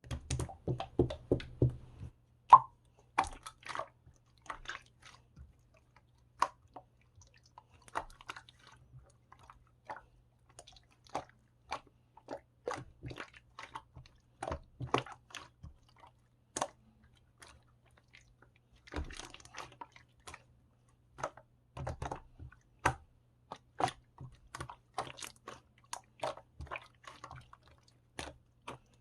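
Close-up chewing and crunching: a long run of short, irregular crunches and mouth clicks.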